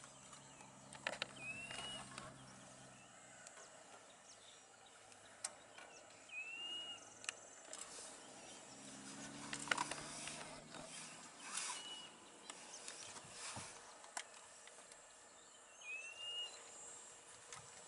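Quiet outdoor ambience. A bird gives a short whistled note, rising then dipping, four times at intervals of four to five seconds, among scattered clicks and knocks and a low hum that comes and goes.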